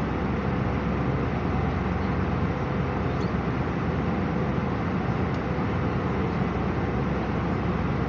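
Steady low rumble and hiss of a vehicle running, heard from inside it, with no change in level.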